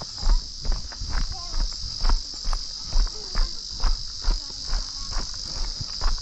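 Walking footsteps on a dirt mountain trail, a thump about twice a second, over a steady, high-pitched insect chorus.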